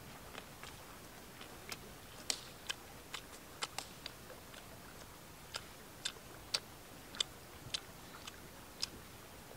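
Close-up crunching of someone chewing crisp fried fish: irregular, sharp little crunches and mouth clicks, with a short pause about halfway through.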